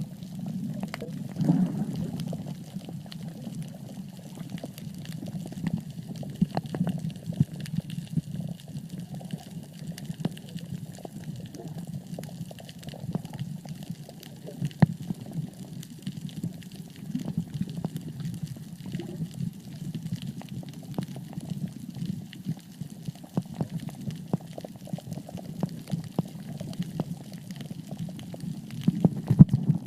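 Underwater sound picked up by a phone below the sea surface: a steady, muffled low churning of water with many small scattered clicks and crackles.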